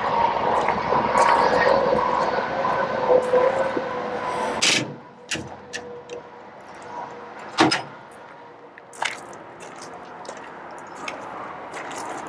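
Metal compartment doors and latches on a utility truck body being handled: a scraping, rustling stretch for the first four seconds or so that ends in a sharp latch click, then a few scattered clicks and knocks.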